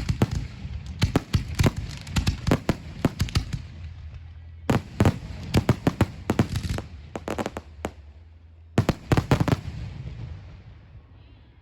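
Fireworks bursting in rapid volleys of sharp bangs, in three dense clusters, the echoes dying away near the end.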